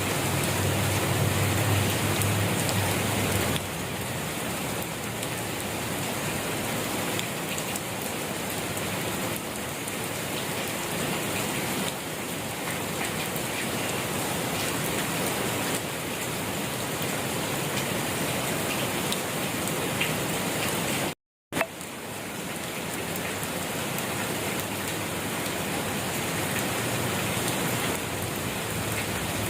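Rain falling steadily: an even hiss of many drops. It cuts out to silence for about half a second about three-quarters of the way through, then resumes.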